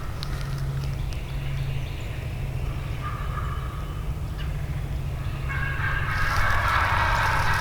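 Wild turkey gobbling: a fainter call about three seconds in, then a louder, longer gobble starting about five and a half seconds in, over a steady low rumble.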